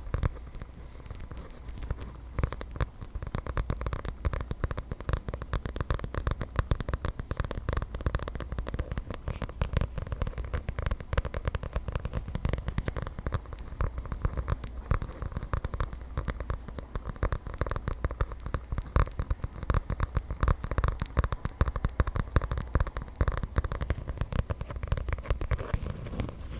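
Fingernails tapping and scratching rapidly on the cover of a small journal, a dense run of quick clicks.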